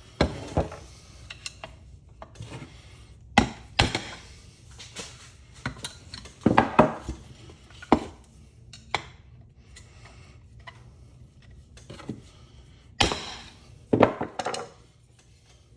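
Ceiling fan housing and parts being handled during teardown: irregular knocks, clanks and clatters of hard parts set down and shifted, in a few louder clusters.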